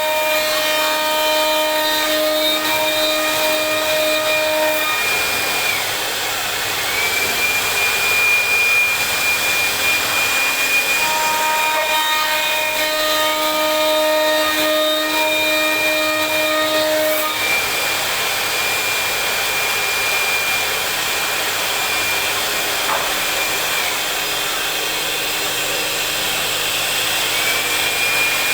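CNC router machine carving wood: a steady high spindle whine over the noise of the cut. Lower humming tones come in twice, for the first few seconds and again midway.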